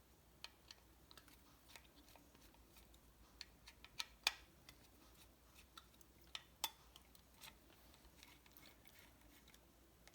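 Faint, scattered small clicks and taps of a screwdriver and screws being worked by hand on engine parts, the sharpest tap about four seconds in.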